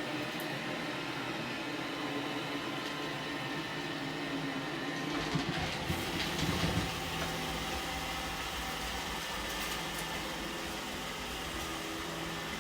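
Robot vacuum running: a steady motor and fan hum with a few louder knocks about five to seven seconds in.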